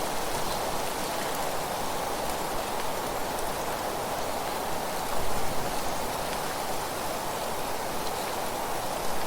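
Wind blowing through leaves, a steady dense rustling hiss that swells briefly about five seconds in.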